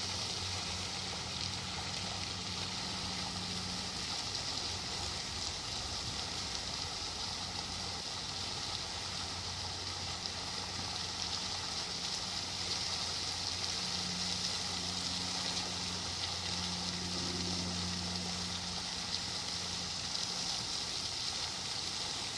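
Running water of a stream, a steady rushing, with a low steady hum beneath it that fades in and out.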